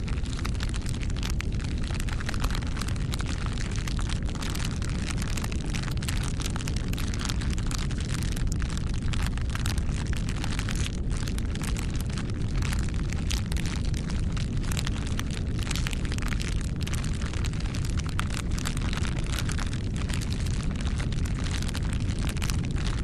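Open wood fire burning, with a steady low rumble of flames and frequent irregular crackles and pops.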